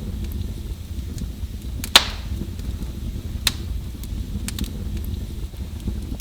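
Wood fire in a fireplace crackling over a low steady rumble, with scattered sharp pops; the loudest pop comes about two seconds in and another about a second and a half later.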